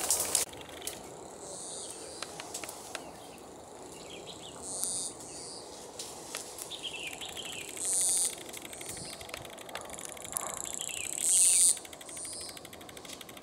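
Small birds calling in hillside scrub: short high-pitched chirps repeated several times, the loudest about eight and eleven and a half seconds in, with quick falling twittered notes between them. Faint clicks and rustles of brush come early on.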